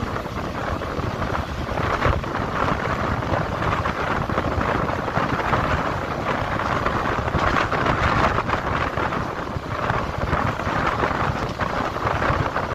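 Wind buffeting the microphone held outside a passenger train running at speed, over the steady running rumble of the coaches on the track.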